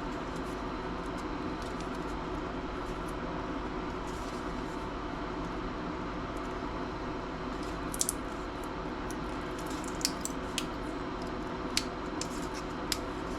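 Steady background hum, with a handful of short, sharp clicks and taps in the second half from the metal frame and plastic parts of a laptop LCD screen being pried and handled.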